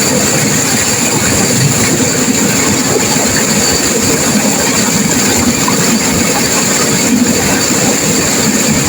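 River water rushing and crashing in turbulent flow: a loud, steady, unbroken noise.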